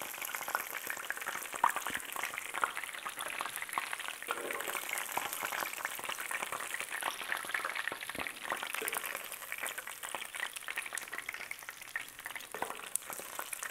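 Walleye fillets frying in hot oil in a skillet: a steady sizzle with dense crackling, broken by a few sharper clicks.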